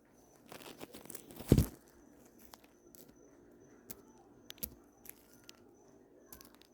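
Faint rustling and crinkling handling noises with scattered clicks, and one louder thump about a second and a half in.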